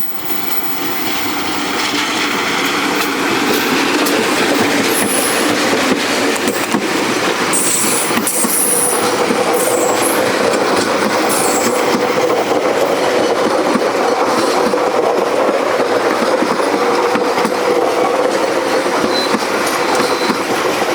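Train running past on a curved track: wheels on rail in a steady loud rumble that builds over the first two seconds, with short high squeals about a third of the way in and a steady hum joining from about the middle.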